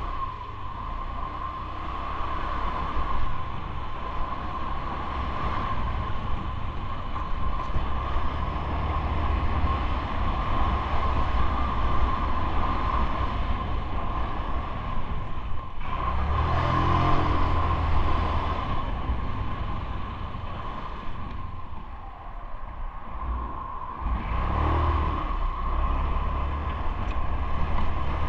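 Riding noise from a bicycle: wind and road rumble on the camera's microphone, with a steady high whine throughout. Traffic swells past twice, about two thirds of the way in and again near the end.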